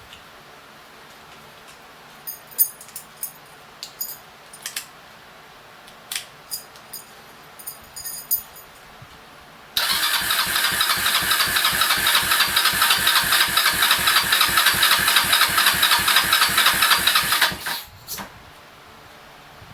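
A few light clicks, then the electric starter of a Kawasaki Estrella's air-cooled single-cylinder engine cranks it for about eight seconds, with an even beat of about five pulses a second, and stops abruptly without the engine catching. A couple of knocks follow.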